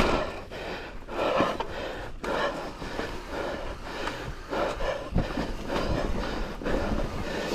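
Mountain bike rattling and rumbling over rough, rocky trail on a descent: a steady clatter of tyres, chain and frame with irregular knocks.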